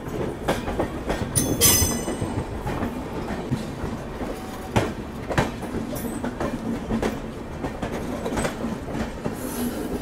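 Passenger train running at speed, heard from an open coach doorway: wheels clattering over rail joints and points with rumble and wind, while a second train runs alongside on the parallel track. A brief high wheel squeal about one and a half seconds in.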